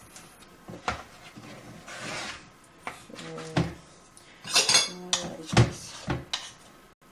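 A spoon stirring a thickening batter of coconut milk and rice flour in a bowl, scraping and knocking against the sides at irregular intervals.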